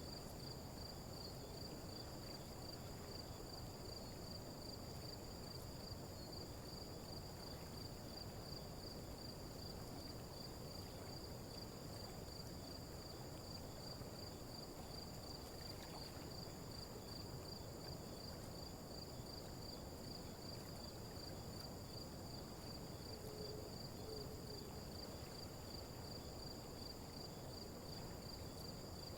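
Faint, steady insect chirring, like crickets, continuing without a break over a low background hiss.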